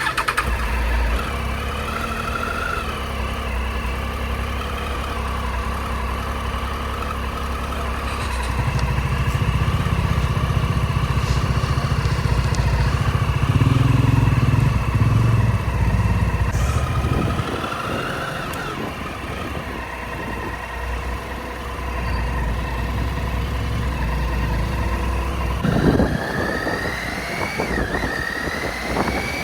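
Superbike engine running at a steady pitch while riding, with heavy low rumble partway through. Near the end it accelerates: the pitch rises, dips at a gear change, and rises again.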